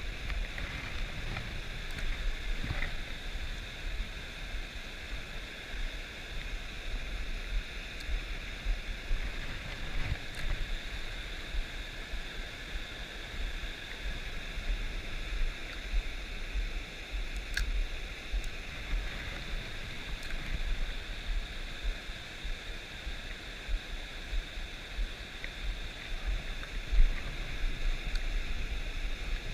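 Stream water rushing steadily, with low rumbling wind noise on the microphone and a single sharp click a little past halfway.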